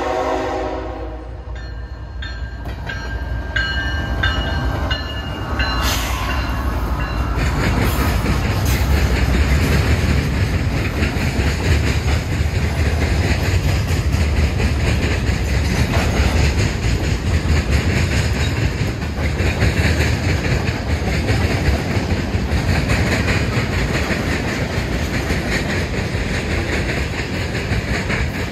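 Diesel freight train passing: the locomotive's horn finishes a blast about a second in, and a crossing bell rings for several seconds. The locomotives go by about six seconds in, then comes the steady rumble and clickety-clack of freight cars rolling past.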